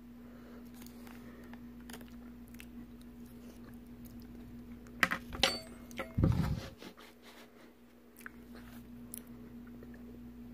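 A person chewing a soft cookie, over a steady low hum. A few sharp clicks come about five seconds in, and a dull thump just after six seconds is the loudest sound.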